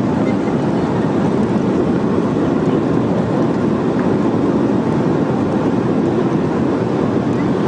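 Steady roar of a jet airliner heard from inside the cabin, engine and airflow noise during the landing.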